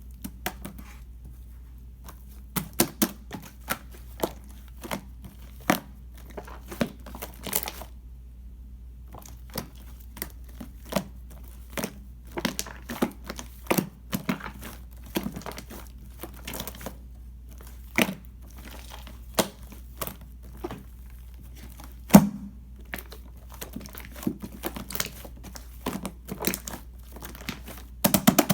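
Hands squishing and kneading clear slime mixed with shaving foam, making irregular sticky crackles and pops. A low steady hum runs underneath.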